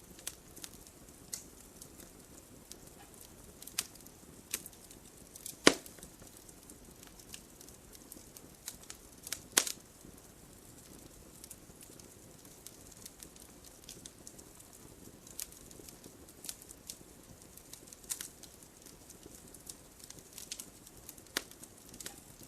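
Campfire burning with scattered crackles and sharp pops over a soft, steady hiss; two louder pops come about six and nine and a half seconds in.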